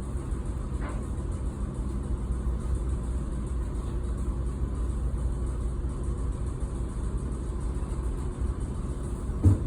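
Ship's engine and machinery running with a steady low drone. A single short thump comes near the end.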